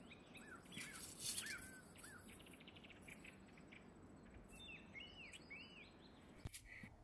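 Small birds chirping: a run of short arched chirps, then a second run about four and a half seconds in, over a faint steady hiss of outdoor ambience.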